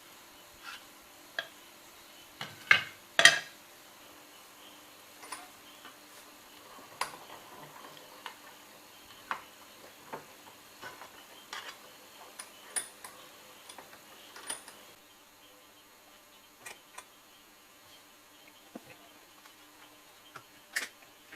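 Scattered light clicks and taps of metal parts or tools being handled on a workbench, two sharper knocks about three seconds in, over a faint steady hum.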